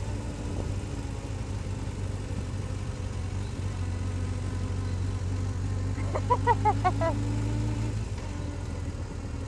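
Steady low vehicle engine drone. About six seconds in, a brief run of quick high-pitched chirps sounds over it.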